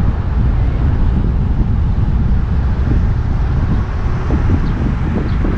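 A car driving along, with a steady low wind rumble on the microphone over road and engine noise.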